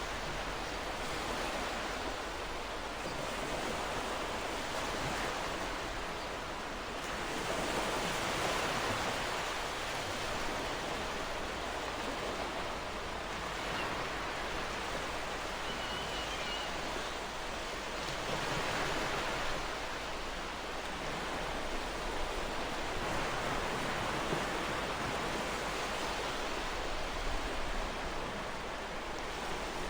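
Ocean waves breaking on a shore: a continuous wash of surf that swells louder every several seconds as a wave comes in.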